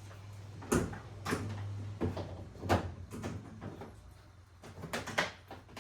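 A run of sharp knocks and clacks, like a plastic washing machine's lid and parts being handled, over a low hum that stops about two seconds in.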